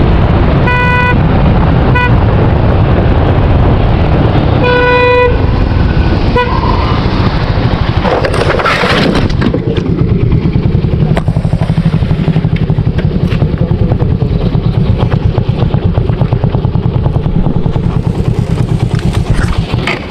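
Motorcycle riding at speed with a heavy, steady rumble of engine and wind. A vehicle horn honks several short times in the first seven seconds, one honk longer than the rest about five seconds in.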